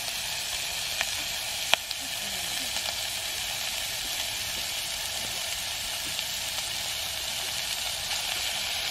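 Food frying in oil in a metal pot over a wood fire: a steady sizzle. Two sharp clicks cut through it, the louder about two seconds in.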